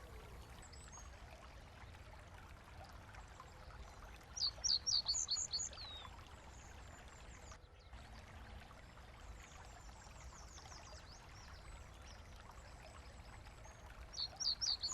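A songbird sings a short, quick run of high descending notes twice, the second near the end, over the faint steady rush of a brook.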